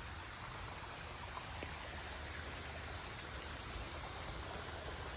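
Steady hiss of running water from a backyard garden pond, even and unbroken.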